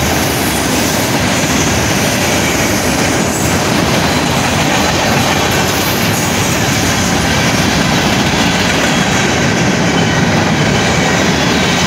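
A freight train of boxcars and covered hopper cars rolling steadily past at a road crossing: a loud, continuous rumble with the clatter of wheels on the rails.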